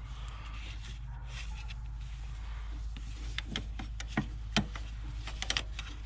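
Irregular light clicks and taps of a hand wrench against metal engine parts, more frequent in the second half, over a steady low hum.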